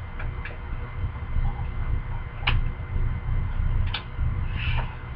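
Trading cards and foil pack wrappers being handled, making scattered sharp clicks and a brief rustle near the end, over a steady low rumble.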